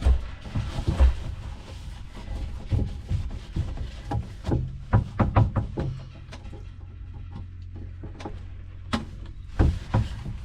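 Cleaning inside a refrigerator: a cloth rubbing and squeaking on the plastic shelves and walls, with repeated knocks and clicks of parts being handled, over a low steady hum.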